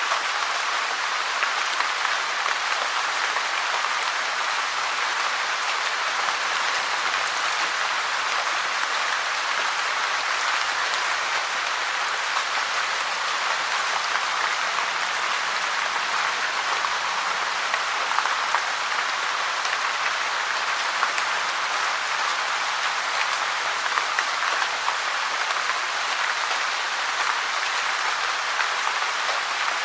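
Steady rain falling: an even, unbroken hiss with faint scattered drop taps.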